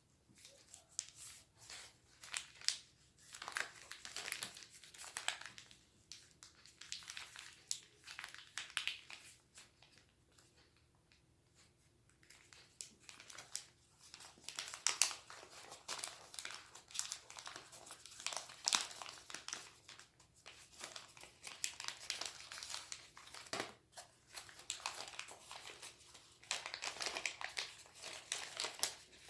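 A sheet of origami paper being folded and creased by hand into a bear, crinkling and rustling in irregular bursts of small crackles, with a short lull about ten seconds in.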